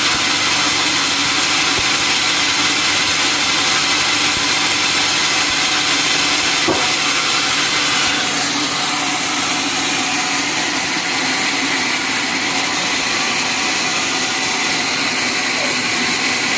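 Sawmill saw and its motor running steadily, loud and noisy, with a single sharp click about seven seconds in and a change in tone about a second later.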